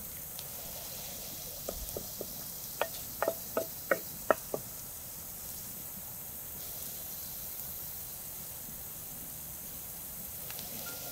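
Chopped onions and tomato paste sizzling in oil in a glazed clay pot. About two seconds in, a wooden spatula knocks and scrapes against the pot in a quick run of sharp taps lasting a few seconds.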